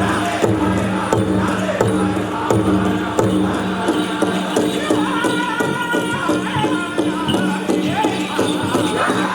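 Powwow drum group playing a chicken dance song: several singers strike a large communal drum in a steady beat, and high-pitched group singing comes in strongly about halfway through.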